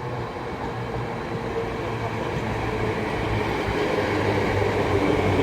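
Class 319 electric multiple unit running into the platform, its steady hum growing louder as it approaches.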